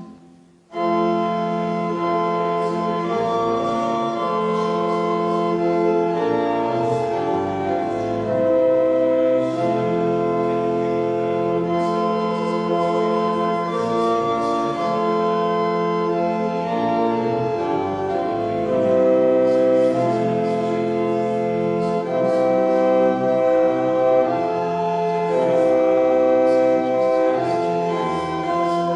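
Organ playing slow, sustained chords, with a brief break just after the start before the music resumes.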